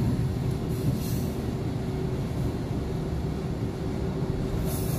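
Passenger coach of a moving train heard from inside: a steady low rumble of the wheels on the track with a faint steady hum, and a brighter hiss coming in near the end.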